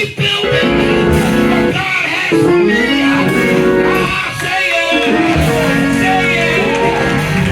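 Gospel praise music with guitar over held chords, with singing voices.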